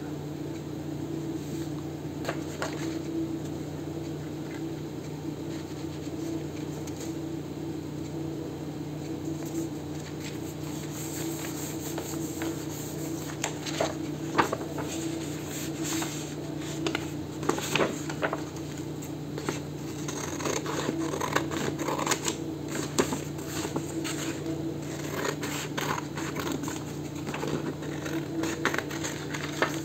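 Hands working with paper and card: rustling, scraping and small taps and clicks, busier in the second half, over a steady low hum.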